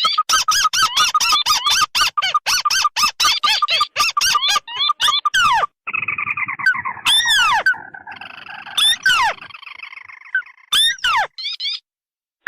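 Recorded lure calls of two kinds of crake, tikusan merah and tikusan putih, played together. For about the first six seconds there is a fast run of sharp, repeated, down-curving notes. After that comes a buzzier churring stretch with a few loud single calls.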